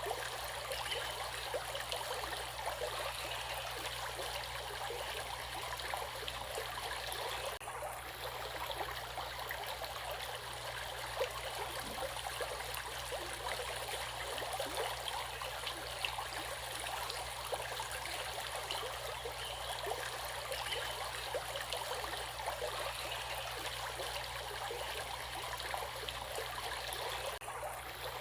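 Flowing water of a stream, running steadily.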